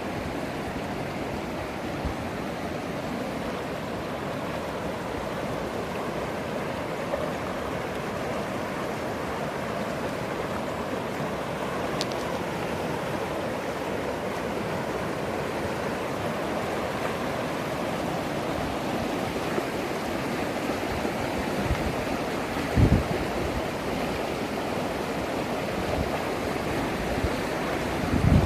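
Swollen mountain river rushing steadily, a full, even roar of storm-fed water. A couple of short low thumps on the microphone come near the end.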